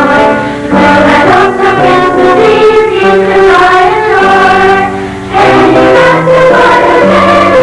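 A school choir singing a Christmas song in sustained, held notes, with instrumental accompaniment.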